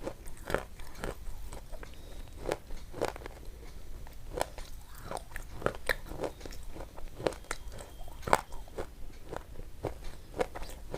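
Crunchy chewing and biting: irregular crisp crunches, about two or three a second.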